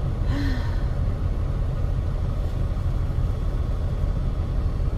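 Steady low rumble of a truck's engine, with no break and no change in level.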